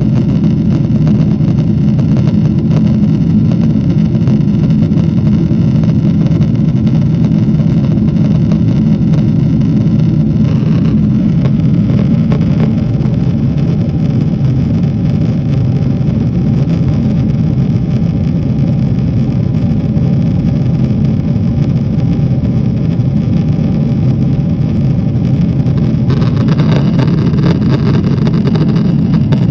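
Steady low engine drone. The upper hiss thins out about ten seconds in and grows brighter again in the last few seconds.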